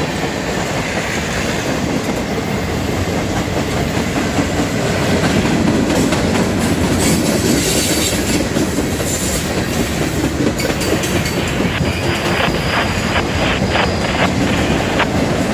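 Long CSX freight train rolling past, its cars rumbling steadily with wheels clacking over the rail joints. A run of sharper clacks comes near the end.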